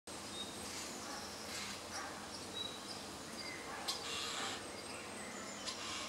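Wild birds calling: scattered short, high whistles and chirps, with a few bursts of raspy hissing and one sharp click about four seconds in.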